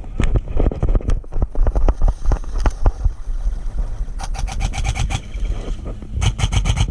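Irregular footfalls and brush with low wind rumble on the microphone as a player moves. Then come two bursts of rapid, evenly spaced airsoft gun fire, each about a second long: one about four seconds in and one near the end.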